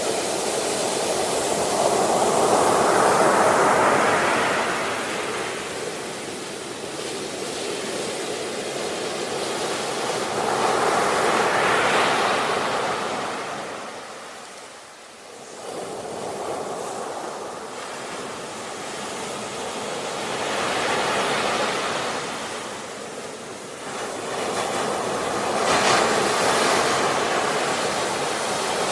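Ocean waves washing on the shore: a steady surf wash that swells four times and falls away between, with a brief lull about halfway through.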